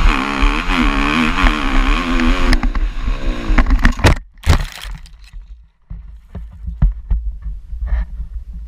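Motorcycle engine running with a wavering, rising and falling pitch for about two and a half seconds, followed by several sharp knocks and clatter. After that only a low rumble with scattered clicks remains.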